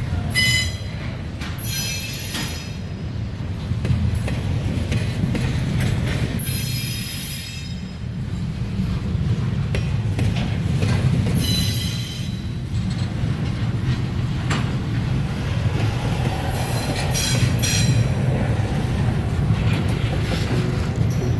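Freight train cars rolling past with a steady low rumble, and short high-pitched wheel squeals every few seconds.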